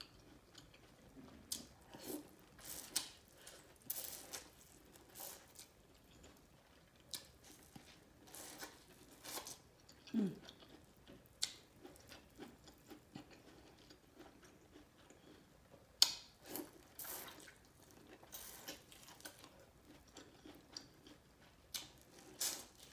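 Close-miked chewing and wet mouth sounds of a person eating sauce-covered corn on the cob. They come as short, irregular sounds a second or two apart.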